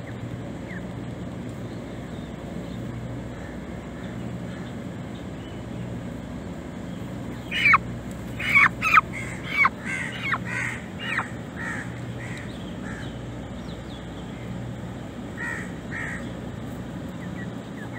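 Harsh bird calls: a quick run of about seven short, downward-sweeping calls about halfway through, and two fainter ones near the end, over a steady low hum.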